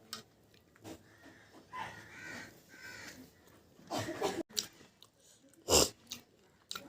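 Close-miked eating: chewing and mouth clicks, a wheezy pitched breath about two seconds in, and a short sharp burst a little before the end that is the loudest sound.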